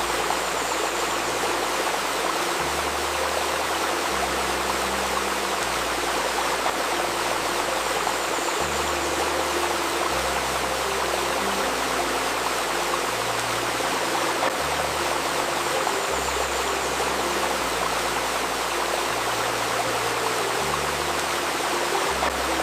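Babbling river stream flowing steadily, mixed with a soft 528 Hz tone and low sustained synth notes that shift every couple of seconds.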